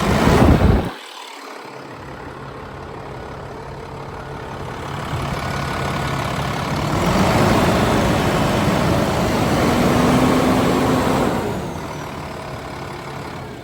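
International semi truck's diesel engine running, a loud noisy burst in the first second, then building up for several seconds and easing off near the end.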